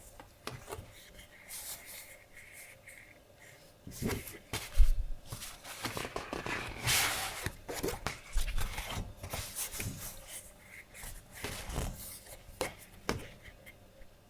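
Paper handling on a tabletop: sheets of deco paper rustling and sliding, with light taps and clicks and a heavier knock about five seconds in.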